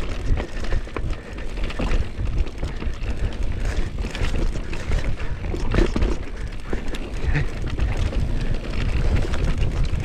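Mountain bike descending a rough dirt trail: tyres rumbling over roots and rocks with frequent clatter and knocks from the bike, and wind buffeting the microphone.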